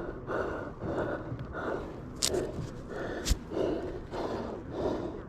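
A person panting hard close to the microphone, quick rhythmic breaths about every half second, out of breath. Two sharp knocks cut through, a little after two seconds in and again just after three.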